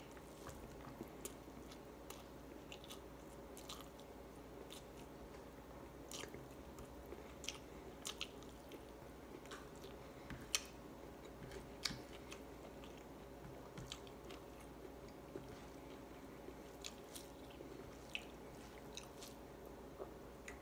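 A person eating rice, fish and chicken by hand, chewing close to the microphone with scattered wet mouth clicks and smacks; the sharpest smacks come a little past halfway.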